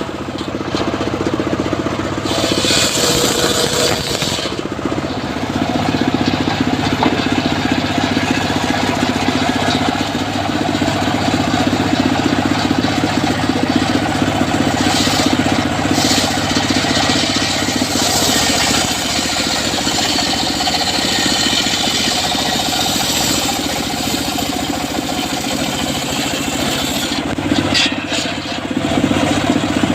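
Engine of a home-built circular sawmill running steadily, with a few short stretches of higher hiss over the running.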